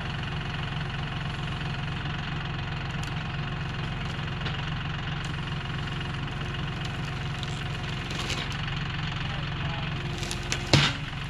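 John Deere 5075E tractor's diesel engine running steadily. Near the end there is a brief loud knock.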